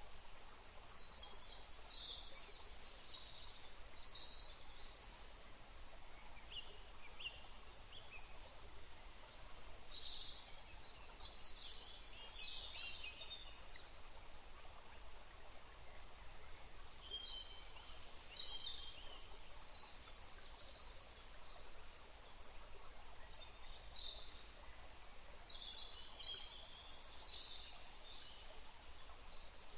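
Birds chirping in short high bursts, a flurry every several seconds, over a steady background hiss.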